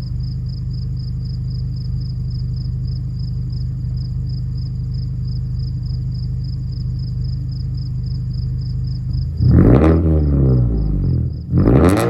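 2014 Mazda 3's 2.0-litre four-cylinder, warm, idling steadily through a resonator-deleted 3-inch exhaust with the catalytic converter still in place. It is revved twice, about nine seconds in and again near the end, each rev rising and falling quickly. Crickets chirp throughout.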